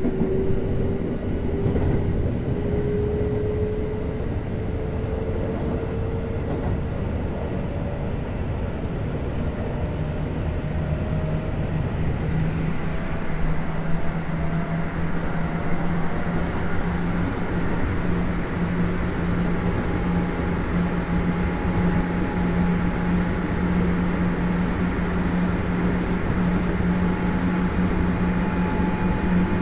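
Kintetsu 1420 series VVVF-inverter prototype electric train running, heard inside the car: thin inverter tones climb slowly in pitch as it gathers speed over a steady rumble of wheels on rail. From about ten seconds in a steady low hum joins.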